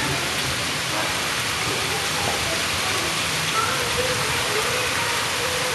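Heavy rain pouring down steadily, an even hiss of a downpour with no breaks.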